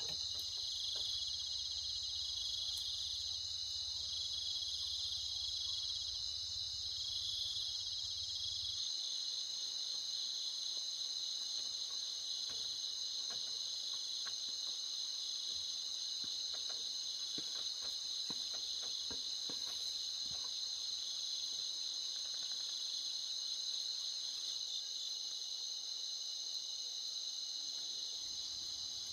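Insects, crickets, chirping in a steady high-pitched chorus, with a low hum underneath that stops about a third of the way through and a few faint scattered clicks.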